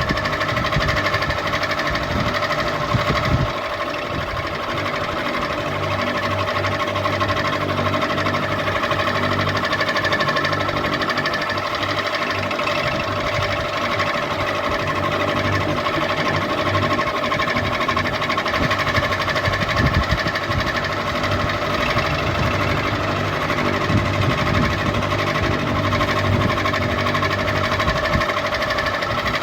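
Ceiling fan running steadily: a constant motor hum with a fast mechanical rattle underneath.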